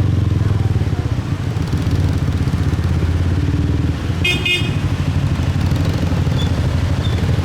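Motorbike running steadily through city traffic, its engine and road noise a constant low rumble. About four seconds in, a vehicle horn gives one short, high-pitched beep.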